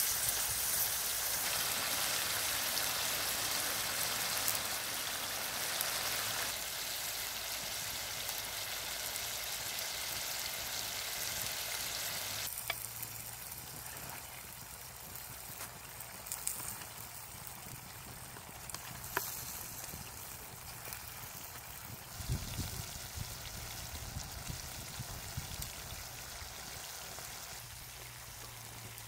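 Eel pieces in sauce sizzling and bubbling in a wok over a wood fire, being stirred with a bamboo stick. The hiss is louder at first and settles to a quieter simmer about halfway through, with a few sharp clicks.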